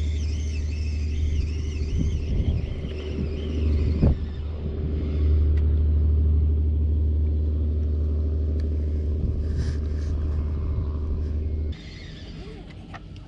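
Steady low engine rumble, with a faint warbling high sound over the first few seconds and a short knock about four seconds in. The rumble drops away abruptly near the end.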